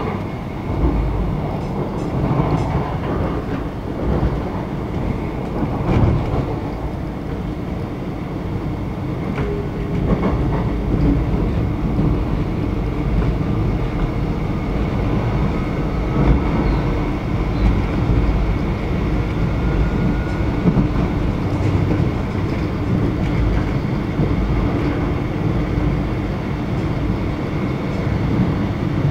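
X'Trapolis electric train running at speed, heard from inside the front carriage: a steady rumble of wheels on the rails, with a faint whine and an occasional click.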